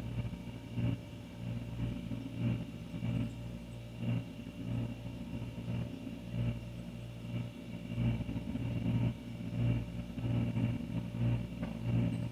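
Old refrigerator running: a steady low compressor hum with fainter fixed tones above it, swelling and fading in an uneven pulse about once a second.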